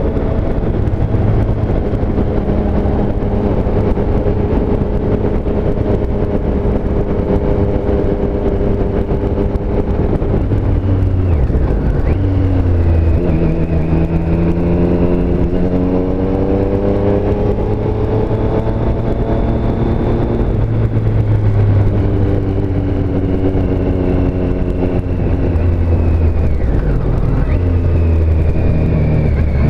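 Triumph Street Triple S inline three-cylinder engine running under way. It holds steady revs, then dips and climbs through a rise in revs in the middle, with another change in pitch near the end.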